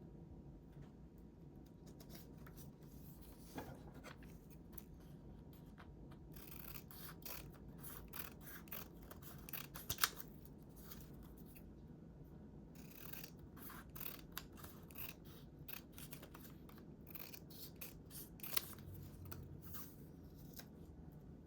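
Scissors snipping through paper in runs of short crisp cuts, in two spells with a brief pause between them and quieter stretches near the start and end.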